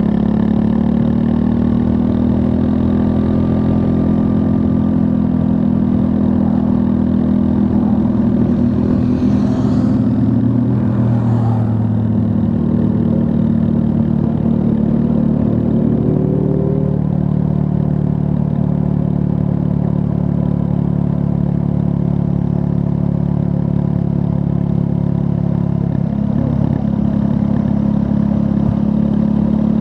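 Triumph Scrambler 400 X's 398 cc single-cylinder engine running as the motorcycle is ridden, mostly steady. Midway the engine note shifts and briefly climbs in pitch.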